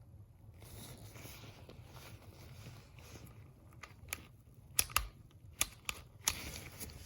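Handling of an Umarex Glock 19 CO2 BB pistol: soft rustling, then a run of short, sharp clicks at irregular spacing from about four seconds in.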